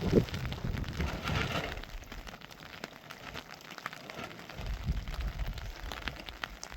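Rain falling steadily with many small drips and taps, and a low rumble at the start and again in the second half.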